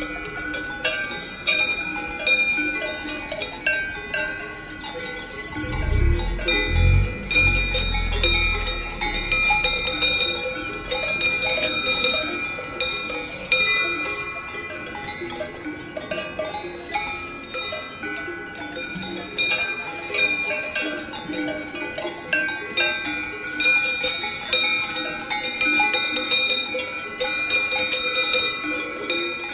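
Many cowbells on grazing livestock clanking and ringing irregularly and without pause, several bells of different pitches overlapping. A brief low rumble about six seconds in.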